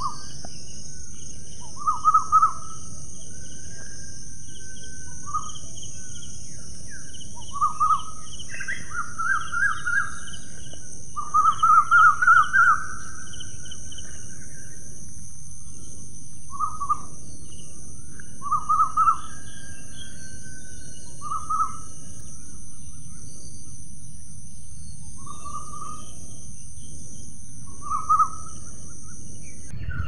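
Bird calls: short bursts of quick, chattering notes, about a dozen times at uneven intervals, the longest run about twelve seconds in, over a steady high-pitched hiss of outdoor ambience.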